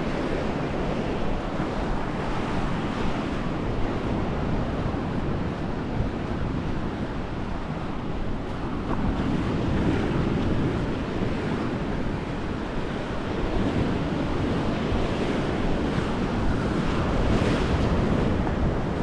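Sea surf washing onto the shore, with wind blowing on the microphone. The surf swells louder about halfway through and again near the end.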